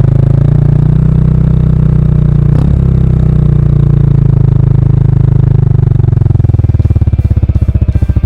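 Kawasaki Estrella's single-cylinder four-stroke engine running loud through a stock muffler with its baffle removed. Its pulsing slows after about six seconds as the engine revs drop.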